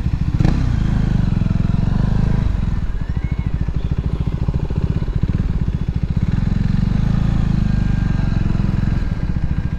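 KTM RC 390's single-cylinder engine with a loud modified exhaust, running steadily at low revs with a fast, even exhaust beat, no revving. A short click about half a second in.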